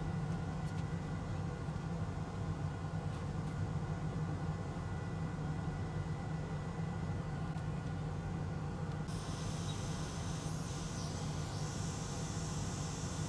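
Steady machine hum, like a fan or air conditioning, with a steady high hiss joining about nine seconds in.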